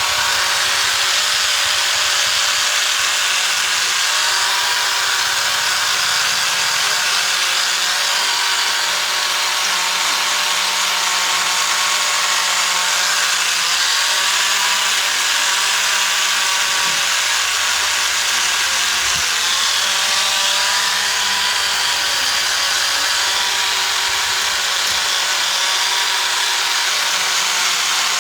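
A handheld electric power tool running continuously, most likely working wood, its motor pitch dipping and recovering slightly as it takes and sheds load.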